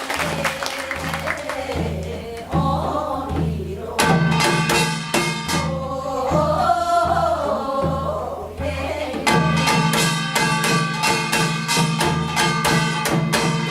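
Korean binari, a blessing song sung over a folk percussion ensemble. Steady drum beats run underneath, a voice sings a wavering line in the middle, and rapid ringing metallic gong strikes come in about four seconds in and again after about nine seconds.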